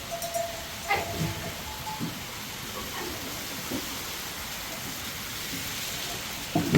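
Steady hiss of heavy rain, with a few faint knocks and a louder thump near the end.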